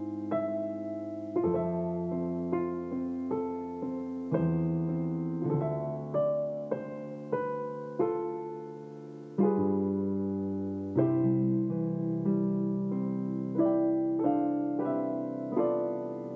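Solo piano playing a slow Christmas tune as background music, chords struck and left to ring, a new one about every second.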